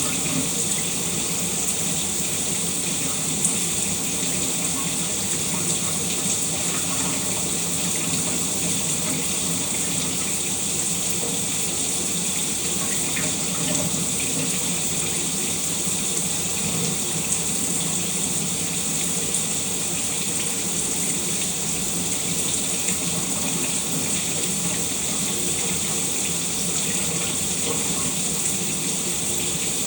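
Shower running steadily, water spraying and splashing in an even hiss.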